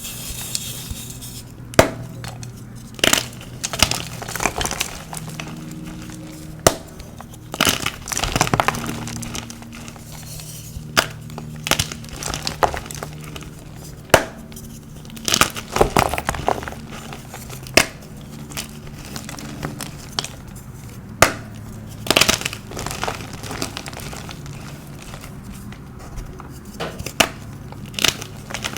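Blocks of pasted, dyed gym chalk being crunched and broken: irregular sharp cracks and crumbly crunches, some single snaps and some short crackling runs. Soft background music plays underneath.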